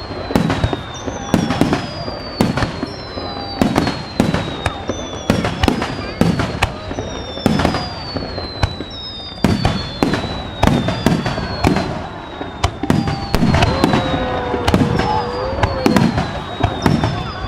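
Fireworks display: a rapid string of sharp bangs from bursting shells, overlaid by repeated high whistles that fall in pitch.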